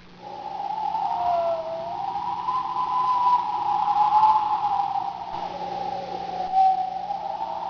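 Storm wind howling, a single whistling tone that slowly rises and falls in pitch, with a steady low hum beneath.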